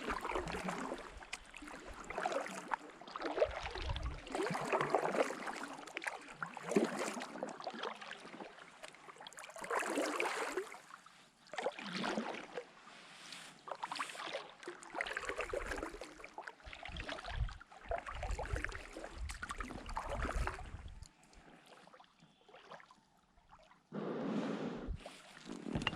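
Paddle strokes dipping and pulling through lake water, a swoosh about every one and a half to two seconds, from a paddled boat; they pause for a few seconds near the end.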